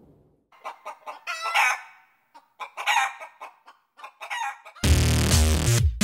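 A rooster clucking and crowing in a string of short calls. About five seconds in, loud electronic music with a heavy drum-machine beat cuts in.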